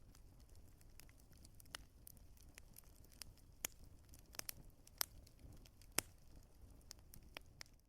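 Burning firewood crackling and popping: irregular sharp pops and snaps, a few louder ones scattered through, over a faint low rumble of the fire.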